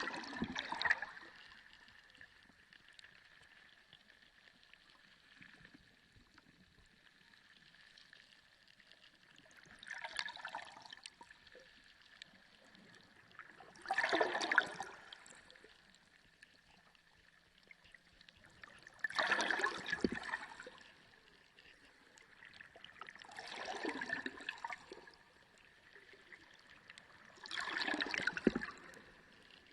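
Underwater sea ambience: gurgling surges of water swell and fade about every four to five seconds over a softer steady wash, with a faint constant high tone beneath.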